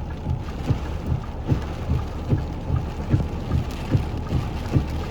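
Heavy rain hitting the roof of a car, with many irregular low thumps of big drops, several a second, over a steady low rumble.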